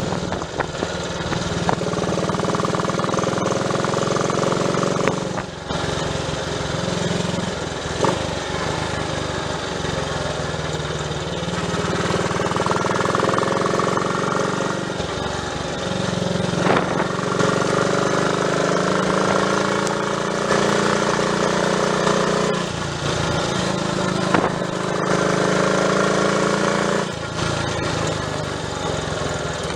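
Triumph Tiger Cub's single-cylinder four-stroke engine running on the road, its pitch rising and falling with the revs and dropping away briefly several times, as at gear changes. The engine is running with its loose distributor freshly clamped up, after a misfire.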